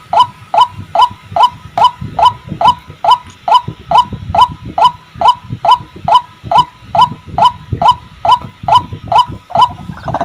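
White-breasted waterhen (ruak-ruak) calling: a steady run of short, clipped notes repeated a little over twice a second.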